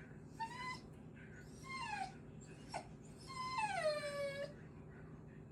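Small dog whining in a series of about four high whines, the later ones falling in pitch and the last the longest. She is balking at a bucket blocking her way, anxious and reluctant to jump.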